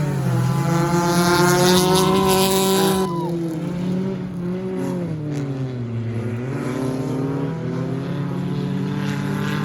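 Several stock car engines running at race pace, louder with added hiss over the first three seconds. The engine pitch dips about six seconds in and climbs back up.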